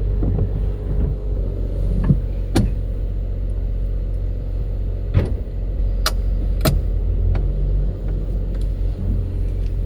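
Steady low rumble of a vehicle's engine running, with a few sharp clicks or knocks over it.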